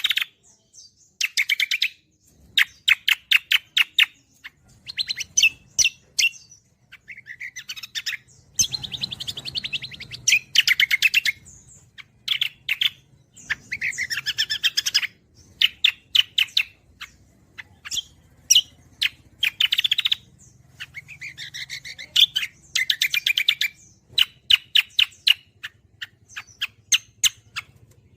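A cucak kombo songbird singing a loud, varied song of rapid trilled notes and chattering phrases, in bursts of one to two seconds with short pauses between them. A faint low hum lies underneath.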